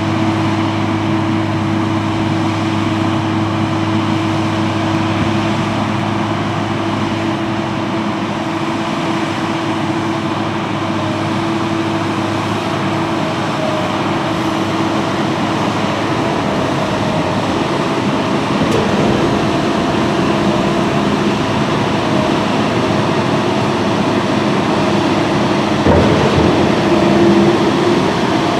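Heavy diesel machinery running steadily at constant speed, with a continuous low hum over broad mechanical noise. A couple of faint knocks come later on.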